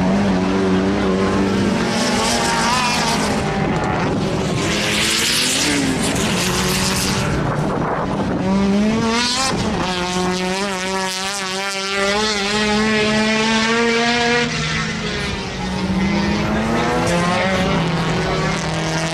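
Sport compact race car's engine at full throttle on a lap, its pitch climbing then dropping again and again as it shifts through the gears and lifts for corners.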